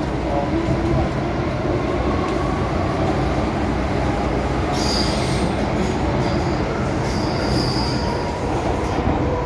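MTR M-Train electric multiple unit running on the line with a steady rumble. High-pitched wheel squeal comes in about halfway through and again near the end.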